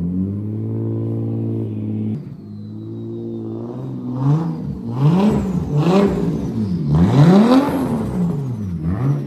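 Toyota Chaser JZX100's turbocharged 1JZ inline-six held at steady high revs for about two seconds, then dropping off throttle with a thin falling turbo whistle. It then revs up and down in several quick sweeps, with more falling whistles between them.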